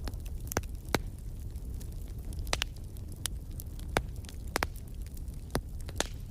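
Fireplace fire crackling: sharp pops about once a second, irregularly spaced, over a steady low rumble of the flames.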